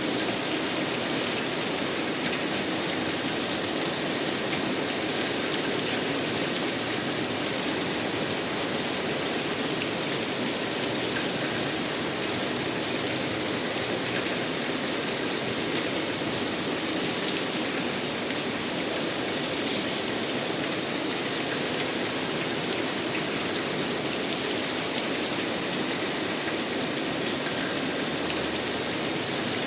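Steady heavy rainfall, an even hiss of rain with no break or change.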